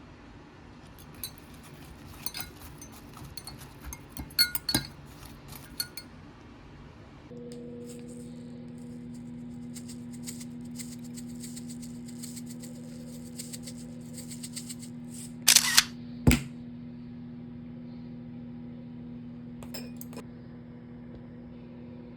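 Small clinks and taps of kitchenware, then an electric kitchen appliance starts up about seven seconds in and runs with a steady hum, with a few sharp knocks over it about halfway through.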